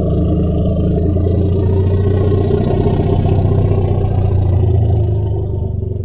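Woolly mammoth sound effect: a long, deep, steady rumbling growl that fades out near the end.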